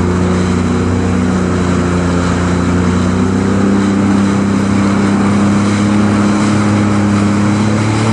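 Jet ski engine running steadily under way, a loud continuous drone at a fairly even pitch.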